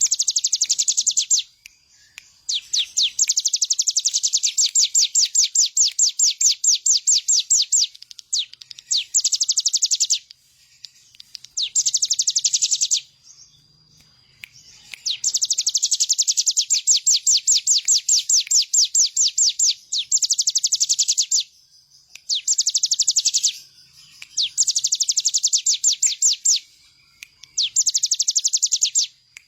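Ciblek gunung, a mountain prinia, singing vigorously: a run of loud, rapid trilled phrases of fast-repeated high notes, each lasting one to five seconds with short pauses between them.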